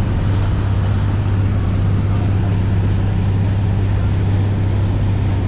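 Boat engine running at steady cruising speed: an even, low drone with the rush of wind and water.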